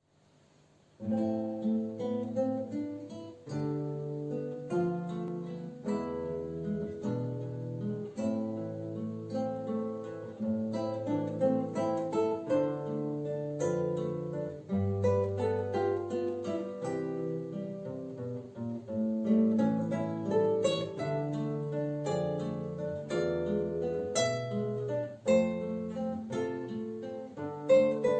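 Two acoustic guitars playing a duet: plucked melody notes over a moving bass line, starting about a second in.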